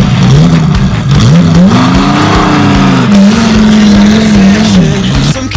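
Car engine revving hard, its pitch sweeping up and down in several smooth rises and falls, like a race car. Rock music comes in just before the end.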